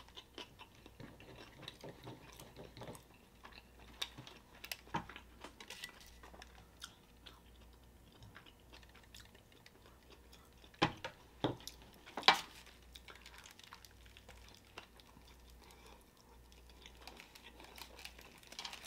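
Close-up chewing of a burrito: soft wet mouth sounds and small clicks throughout, with a few louder sharp clicks near the middle.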